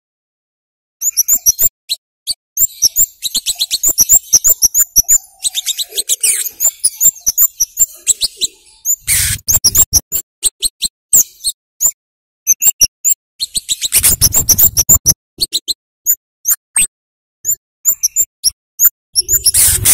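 Scarlet-headed flowerpecker (cabai jawa) calling in quick runs of sharp, very high 'cit' chips, after about a second of silence. Two louder noisy bursts come about nine and fourteen seconds in.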